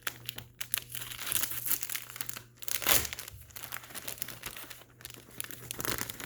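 Packaging crinkling and rustling as a small boxed extra is opened by hand, in irregular crackles with a louder crackle about three seconds in.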